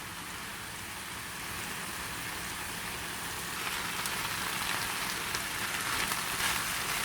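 Hakka noodles sizzling as they stir-fry in a pan: a steady hiss with faint crackles, growing a little louder about halfway through.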